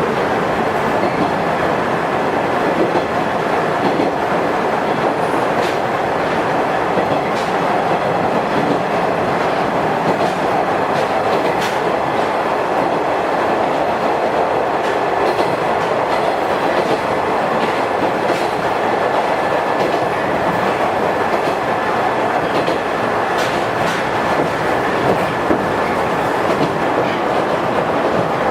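103 series resistor-controlled electric train running steadily, wheels clicking now and then over rail joints, with a faint steady whine under the running noise.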